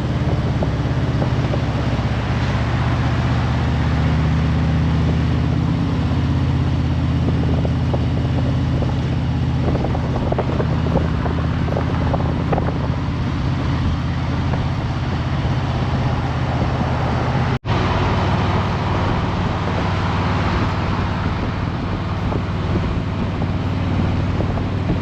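Harley-Davidson Road Glide Limited's V-twin engine running steadily at cruising speed, a low drone under a steady rush of wind and road noise. It cuts out for an instant about two-thirds of the way through.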